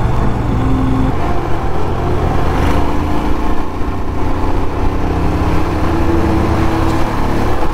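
Royal Enfield Classic 350's single-cylinder engine running steadily under load as the motorcycle overtakes a bus, with road and wind noise.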